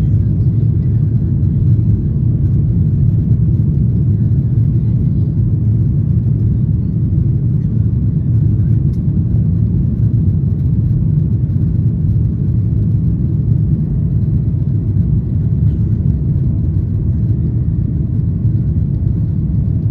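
Steady low rumble of a Boeing 737-800's CFM56 jet engines and airflow, heard from inside the cabin.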